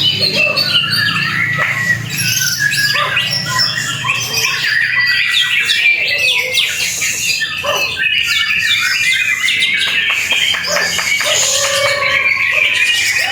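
White-rumped shamas (murai batu) singing continuously in a dense mix of fast whistles, trills and rapid harsh notes.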